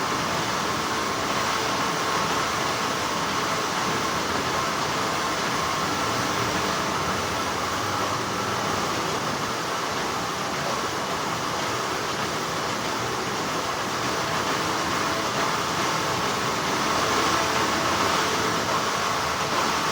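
Continuous hum of textile factory machinery, a steady even drone with a few faint constant tones in it.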